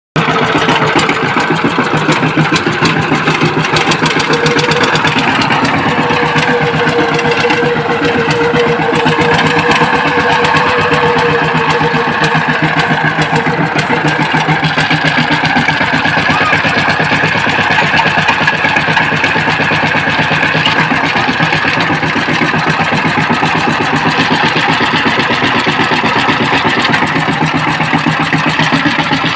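Power tiller engine running steadily with a fast, even firing beat.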